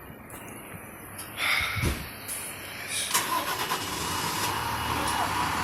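A vehicle engine starting: a loud surge about a second and a half in, then a steady run with a low hum and a steady whine.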